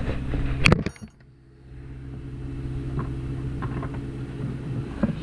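An engine running steadily at low speed, with a sharp clatter about two-thirds of a second in; the sound then cuts out briefly and fades back in as the same steady running.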